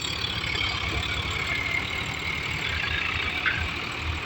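Tractor engine running with a steady low throb.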